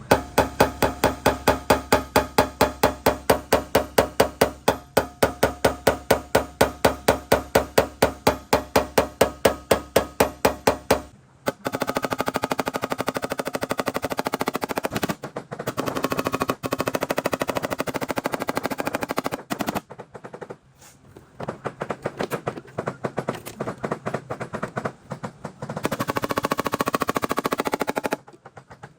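Powered soft-tip paintless dent repair tool hammering the back of a car panel in rapid, even strokes, about four or five a second, for the first eleven seconds. It then runs in faster rattling bursts that stop and start several times.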